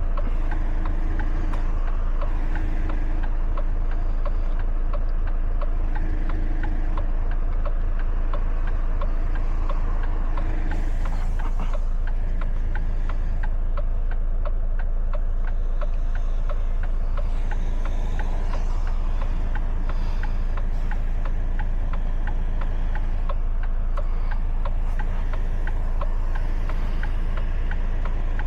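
A truck engine running steadily under way, a low, even drone.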